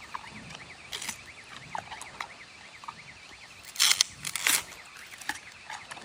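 Giant panda chewing bamboo: a rattling run of small cracks and crunches, with the loudest crunches about four and four and a half seconds in as stalks snap.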